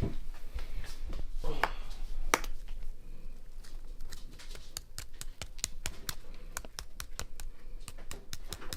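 Crispy air-fried pork belly skin crackling and crunching: a run of sharp, dry clicks, a few louder ones early and coming thicker over the last few seconds, the sign that the once-soft skin has crisped up.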